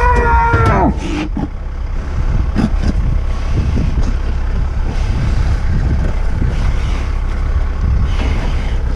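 A vehicle engine runs with a steady low rumble, likely the tractor or the truck for loading. A long bawl, likely from the roped animal, carries into the first second and falls away.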